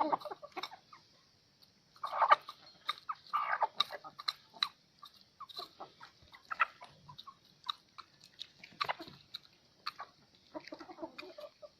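Hen clucking in short, scattered calls, with small clicks and taps in between.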